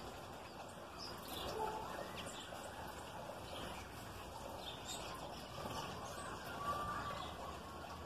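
Birds chirping and calling, short scattered notes at a garden feeder, over a faint steady background hiss.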